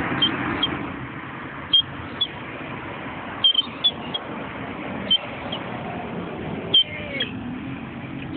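Outdoor background rumble like road traffic. Pairs of short high chirps repeat about every second and a half to two seconds, each with a small click.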